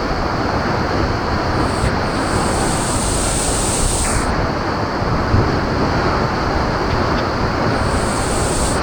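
Waterfall cascading down right beside the trail: a loud, steady roar of rushing water.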